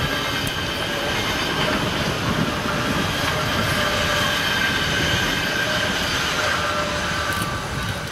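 Passing BLS Stadler KISS double-deck electric multiple unit: a steady rolling rumble of wheels on rail, with a faint high whine running over it.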